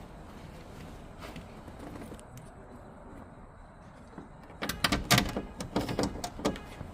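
Ford Transit front door being shut, followed by about two seconds of rapid clattering knocks and rattles starting about four and a half seconds in. This is the door's rattle on closing, a sign of something loose inside the door.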